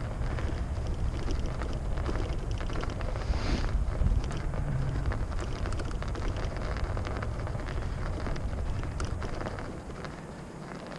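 Dense crunching and crackling of snow and ice underfoot or under wheels, over a heavy low rumble of wind on the microphone; the rumble eases near the end.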